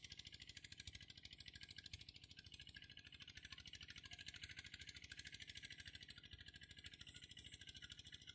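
Cambodian two-wheel kor yun tractor engine running steadily and faintly, a fast, even chugging.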